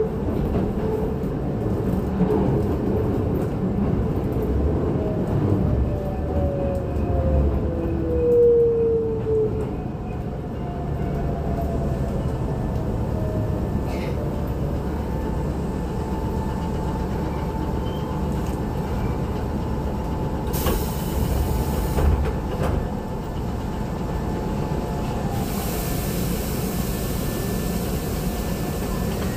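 Running sound inside a Keisei 3600 series electric train: a steady low rumble, with a motor whine falling in pitch as the train slows about six to ten seconds in. A brief hiss comes a little after twenty seconds, and another hiss starts near the end.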